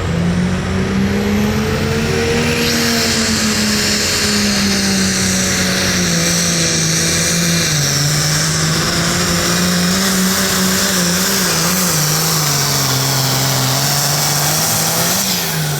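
Diesel engine of a hot farm pulling tractor run flat out through a pull. The engine note climbs in the first seconds, then slowly sags and wavers as it loads down against the sled, with a loud high hiss over it from about three seconds in. It drops off sharply at the very end.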